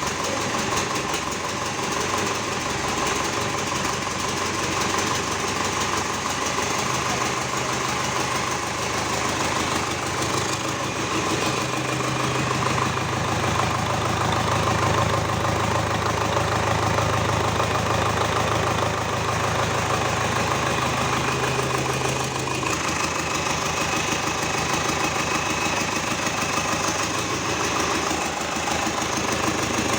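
Freshly repaired D-245 four-cylinder diesel engine of a GAZ-3309 truck running with a diesel clatter; the revs rise a little several seconds in and drop back to idle a little past two thirds of the way through.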